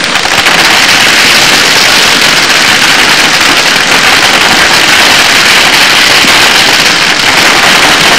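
Torrential rainstorm pouring down: a loud, steady, dense hiss.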